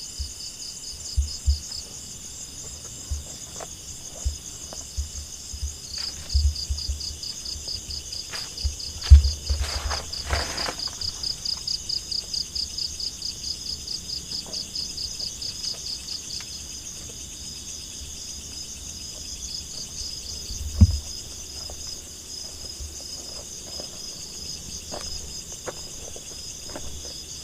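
Insects, crickets by the sound, chirring steadily in a high pulsing band. From about six to sixteen seconds in, one louder insect pulses about four to five times a second. Scattered low thumps run underneath, with a sharper knock about nine seconds in and again near twenty-one seconds.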